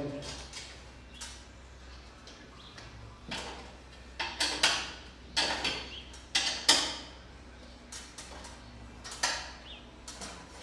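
Garage door installation work: a run of short scrapes and knocks, several close together in the middle and one more near the end, as door parts and tools are handled.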